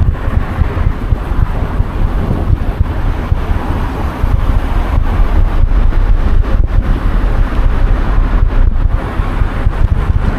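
Wind buffeting the microphone of a DJI Osmo Action 4 action camera on a moving bicycle: a loud, steady, gusty low rumble.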